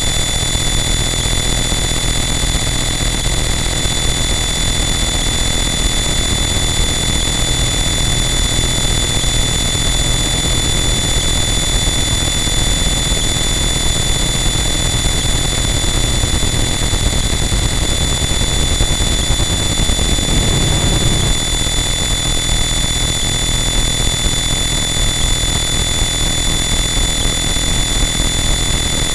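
Harsh noise wall: a loud, static wall of dense distorted noise with steady high whistling tones laid through it and a brief low swell about twenty seconds in.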